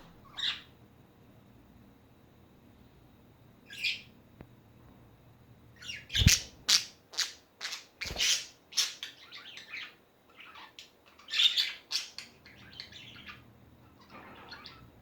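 Pet budgerigars chirping and squawking: two single calls, then a rapid run of sharp chirps and squawks through the middle, with a couple of low knocks under the first of them, trailing off into a softer call near the end.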